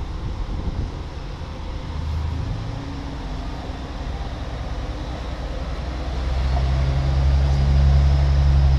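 Diesel engines of the Aru Ressha tourist train running, a steady low hum that grows louder from about six seconds in.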